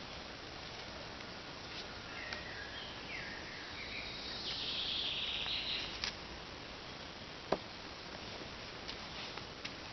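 Forest ambience: birds calling over a steady background hiss, with two sharp clicks in the second half.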